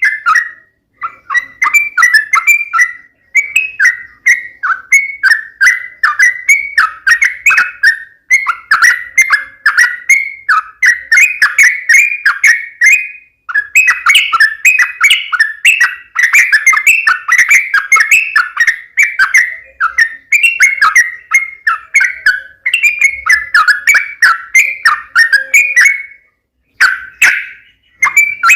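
Yellow-vented bulbul (trucukan) singing continuously and vigorously: rapid, bubbly chattering phrases of quick notes, repeated one after another with only brief pauses.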